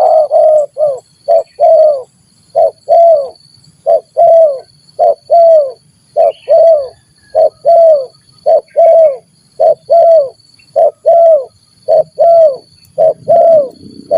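Spotted doves cooing in the stuttering 'gagap' style: short repeated coos falling in pitch at the end, mostly in pairs of a short note followed by a longer one, about once a second.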